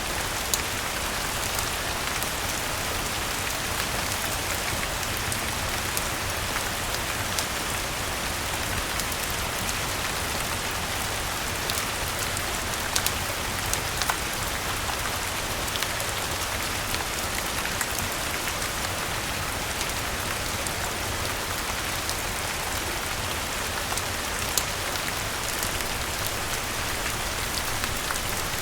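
Steady rain falling, mixed with the scattered sharp crackles and pops of a wood fire in a fireplace.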